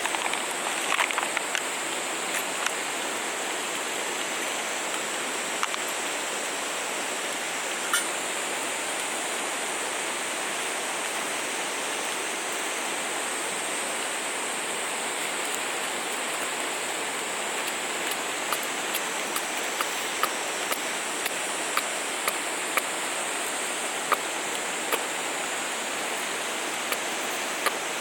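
Steady rushing of a flowing stream, with scattered sharp clicks and crackles over it that come more often in the second half.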